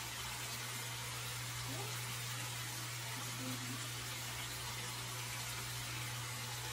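Turmeric-coated chicken pieces sizzling in oil in a stainless steel pan as they brown: a steady, even hiss, with a low steady hum underneath.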